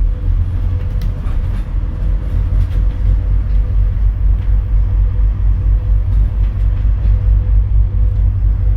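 Scania N230UD double-decker bus's five-cylinder diesel heard from on board, pulling hard with a deep, evenly pulsing rumble and a faint steady whine above it. A few light rattles come about a second in.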